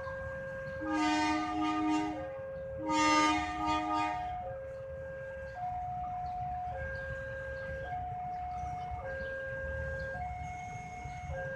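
Railway level-crossing alarm sounding a repeating two-note chime, high and low notes alternating. A train horn blows two blasts of about a second each over it, about one and three seconds in.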